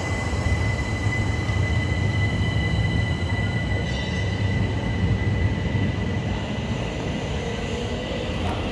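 Electric passenger train running along the platform, with a steady low rumble and a high steady whine that stops a little over three seconds in.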